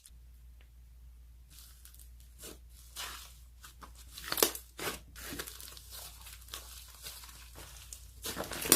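Slime being squeezed and pressed by hand, making irregular crackling and crunchy pops.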